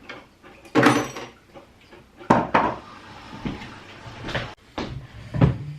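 A series of knocks and clatters from household objects being handled, like cupboard doors and dishes, about five in all with short gaps between them.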